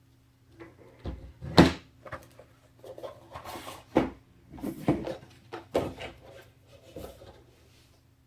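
Hands-on handling noise: a string of knocks and clunks, the loudest about one and a half seconds in, with a brief rustle of packaging about three and a half seconds in, as computer parts and their boxes are handled. A faint steady hum runs underneath.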